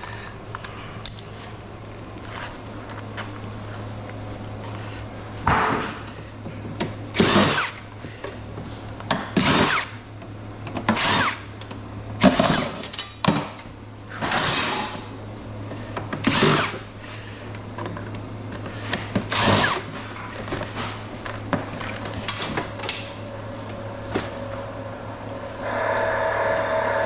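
Power drill fitted with a Phillips bit, run in about ten short bursts whose motor pitch rises and falls, driving screws out of an air conditioner's casing. A steady low hum runs underneath, and music comes in near the end.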